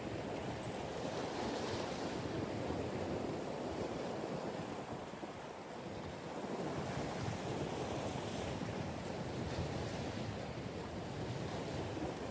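Steady wind rushing over the microphone, mixed with the wash of waves.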